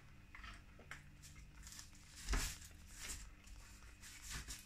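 Close-up chewing: soft wet clicks and smacks of a mouthful of pastry steak bake being eaten, with one louder smack about two and a half seconds in.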